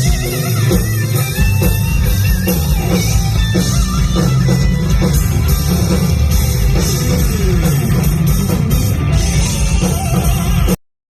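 Loud rock music with electric guitar and drums, cutting off suddenly near the end.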